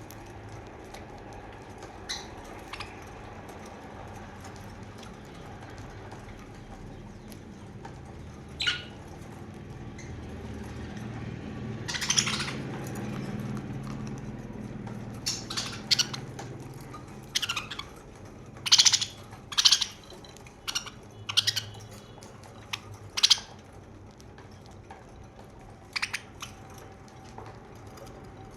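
Pet budgerigars making short, sharp chirps and clicks, sparse at first and then coming thick and irregular through the second half, over a low hum that swells in the middle.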